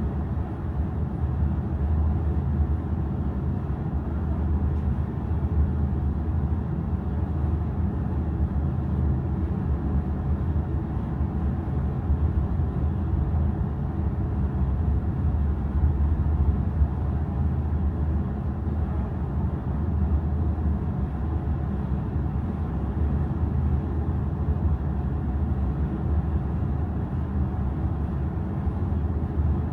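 Steady low rumble of the ferry Kitakami's engines and hull heard aboard while under way, even and unchanging.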